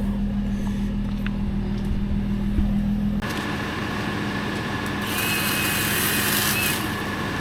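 Vehicle engine running with a steady low hum. About three seconds in, the sound changes abruptly to a noisier running sound with a faint steady whine.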